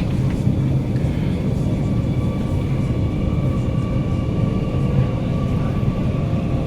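Inside the cabin of a moving Circle Line MRT train: a steady low rumble from the wheels and track, with a faint steady whine above it from the traction motors.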